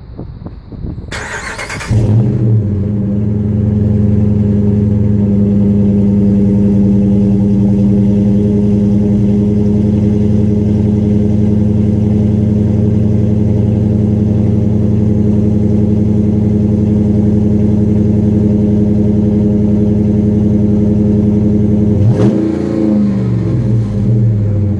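Cold start of a 2015 Ram 1500's 5.7 L Hemi V8 through a single Flowmaster exhaust with the stock muffler and resonator removed. The starter cranks briefly and the engine catches about two seconds in, then settles into a loud, steady high idle. Near the end its pitch slides down.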